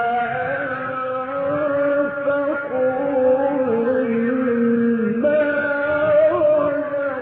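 A male Quran reciter chanting in the melodic mujawwad style, holding long drawn-out notes that step to a new pitch every second or two, with a jump upward about five seconds in.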